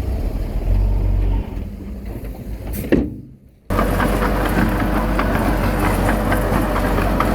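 Heavy earthmoving machinery's diesel engine running steadily, with brief clanks. The sound drops out abruptly about three seconds in, then the engine resumes with metallic clanking.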